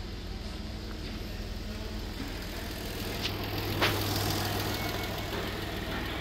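2006 Hyundai Tiburon's 2.7-litre V6 petrol engine idling steadily with the bonnet open, a little louder from about three seconds in, with a sharp click near four seconds.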